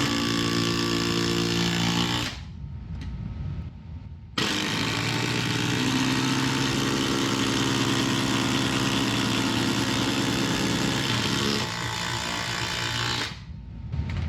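Cordless impact drivers hammering steadily as they drive fasteners into 4x4 lumber. The hammering cuts out about two seconds in, starts again a couple of seconds later, eases near the end and then stops.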